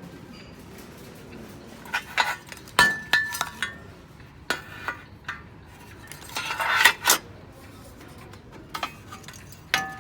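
Dishes and cutlery clinking and knocking: a run of sharp clinks, some with a brief ringing tone, starting about two seconds in, and a short scraping rattle about seven seconds in.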